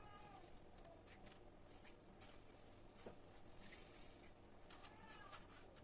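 Near silence: quiet room tone with a few faint short chirps and soft clicks.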